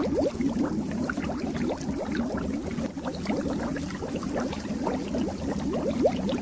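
Fish tank water bubbling and gurgling steadily: a dense stream of small bubbles popping and burbling.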